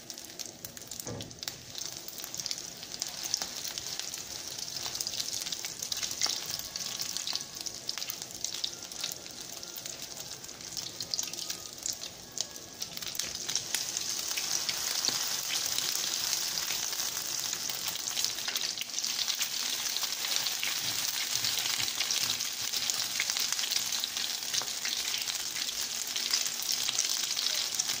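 Tuna-and-oat patties sizzling and crackling as they fry in hot vegetable oil in a pan. The sizzle grows louder about halfway through, as more patties go into the oil.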